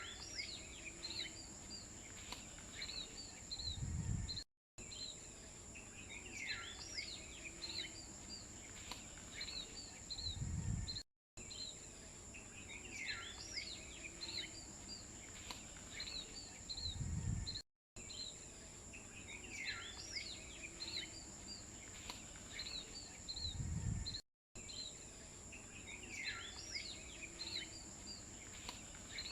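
Looped nature ambience of bird chirps over a steady high insect drone. The same stretch repeats about every six and a half seconds, each time ending in a short low rumble and a brief cut to silence.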